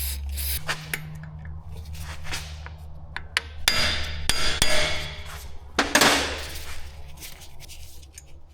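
Short hisses of aerosol penetrating oil sprayed onto seized front suspension bolts to soak them, with sharp metallic clicks and knocks from tools between the bursts over a steady low hum.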